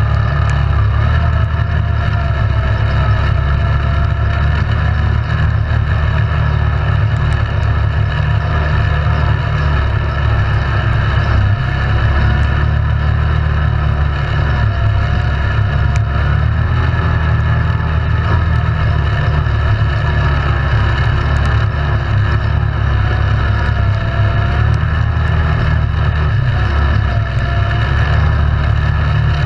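ATV engine running steadily while riding, its pitch wavering up and down a little with the throttle.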